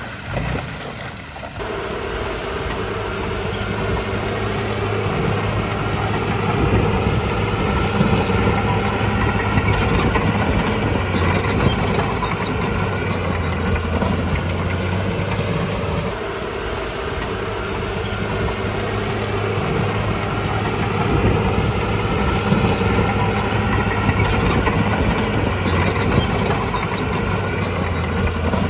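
Heavy earthmoving machine's diesel engine running steadily, with a few sharp clanks along the way.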